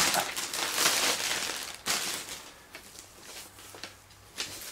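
Packaging crinkling and rustling as it is handled and pulled apart, busiest in the first two seconds, then dying down to a few light clicks and knocks.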